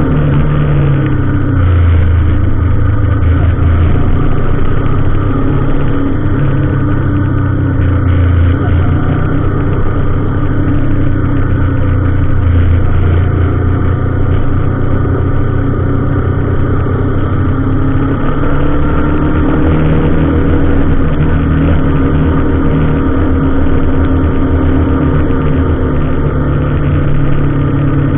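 Motor vehicle engine running steadily with a low drone whose pitch shifts a little now and then.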